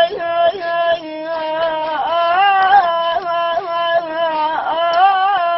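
A single high voice singing an Arabic song, holding long ornamented notes that waver and bend in pitch.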